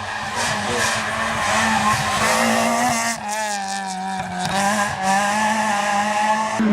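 Rally car engine at high revs, its note held almost steady with a brief wobble in pitch about halfway through.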